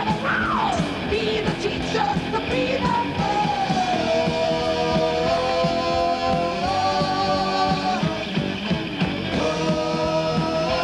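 Heavy metal music with dense drumming under a lead line. The lead swoops down near the start, then holds long notes that step up in pitch about four and seven seconds in.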